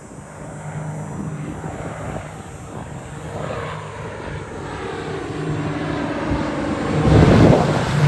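Propeller aircraft making a low fly-by, engine and propeller drone growing steadily louder as they approach, loudest near the end.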